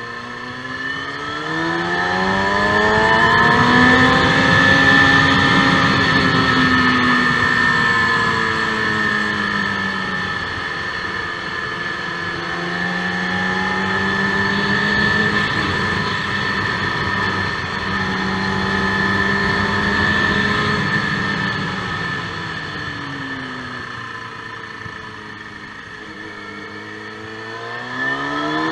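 KTM motorcycle engine on a track lap, heard from a camera on the bike: the revs climb a second or two in and hold high, ease off and pick up again midway, fall away for several seconds late on, and rise sharply again near the end.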